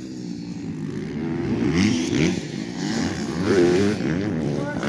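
Motocross dirt bikes racing, their engines revving up and down over and over as they work the track.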